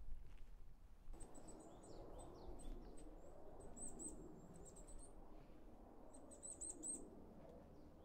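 Small songbird chirping in quick runs of short, very high, thin notes, over faint steady background noise.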